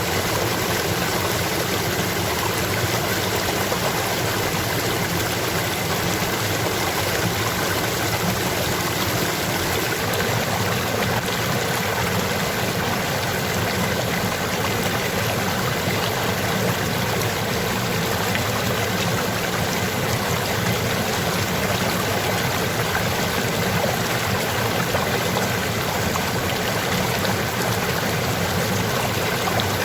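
Stream water flowing and splashing in a steady rush, with no break or change.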